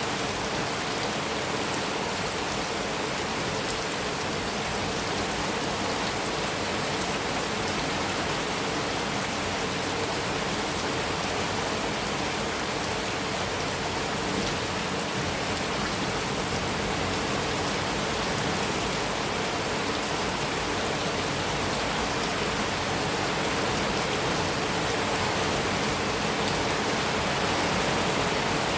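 Heavy rain falling steadily on a metal roof, an even, unbroken wash of drops with no thunder.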